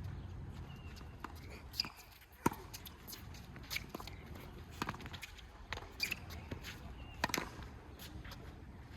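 Tennis rally: a ball struck back and forth by racquets, sharp hits about once a second, six in all, the second the loudest, with scuffing footsteps on the court between them.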